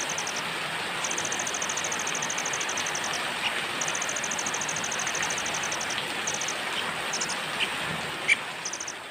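Steady rain, with a high, rapidly pulsing trill in several long bursts over it and a few short chirps, one sharp chirp the loudest near the end; the rain begins to fade out near the end.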